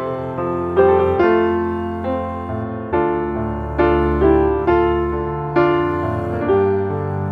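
Background music: gentle piano melody with chords, notes struck every half second or so and left to ring out.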